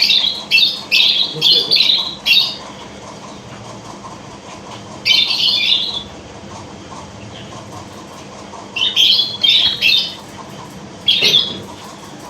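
Lovebirds screeching in short, shrill bursts: a rapid run of calls in the first two seconds, one burst around the middle, and another run near the end.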